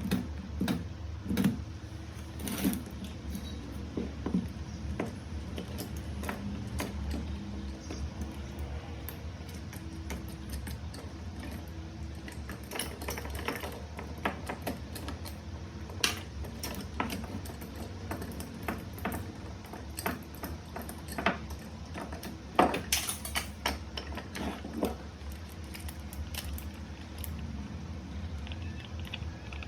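Small hard objects, metal-sounding, clinking and clicking irregularly as they are handled, over a steady low hum.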